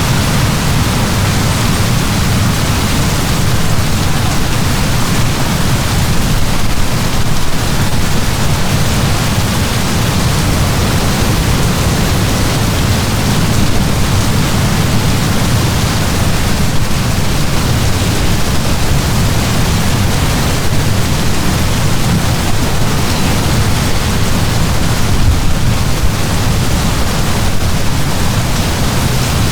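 Heavy downpour of rain, a steady dense hiss with a deep low rumble underneath.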